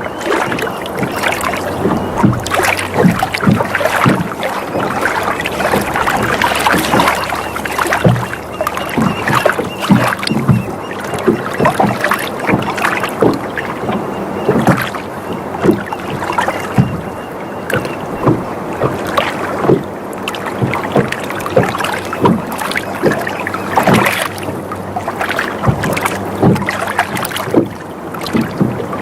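Water sloshing and lapping against a sailboat's hull in many short irregular splashes, over a steady wash of water noise.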